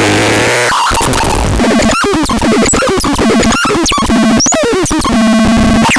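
Loud synthesized electronic sound effects from a KASMAX sound unit: a burst of hiss, then quick chirps, pitch sweeps and clicks, with a steady buzzing tone twice in the second half.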